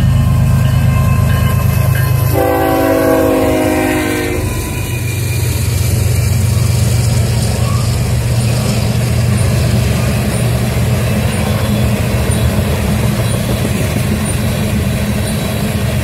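Diesel freight locomotive passing with its engine rumbling, sounding a two-second blast of its multi-chime air horn about two and a half seconds in. After that, a string of loaded tank cars rolls by with a steady rumble and wheel clatter.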